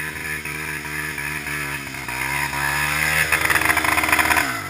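Single-cylinder four-stroke engine of a Honda XR 250 Tornado trail motorcycle running under throttle. It gets louder with the revs raised about three seconds in, then the revs drop right at the end.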